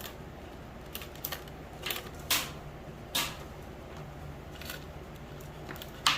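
Small parts being handled by hand: a handful of short, scattered clicks and rustles over a faint steady low hum.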